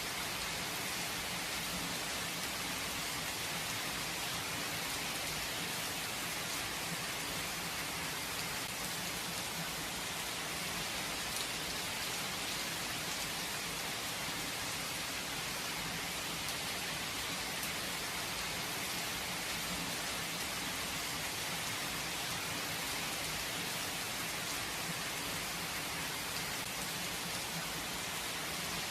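Steady rain falling on surfaces, an even hiss of many drops with no thunder.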